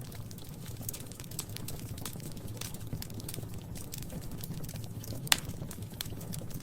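Wood fire crackling in a fireplace: irregular small pops and snaps over a low steady rumble, with one loud snap about five seconds in.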